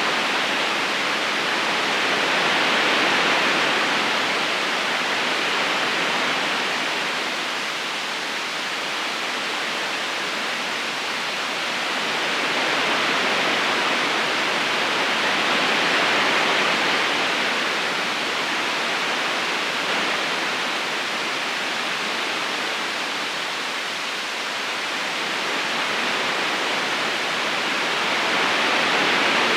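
River current rushing and splashing steadily over stones, an even hiss of water that swells and eases gently every dozen seconds or so.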